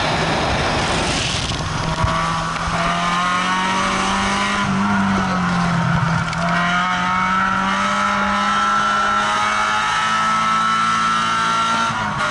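A car engine under load on a race track, first mixed with heavy wind rush from outside the car. After about two seconds it is heard from inside the cabin, its pitch dipping and recovering around the middle and rising slowly as the car accelerates, then dropping just before the end.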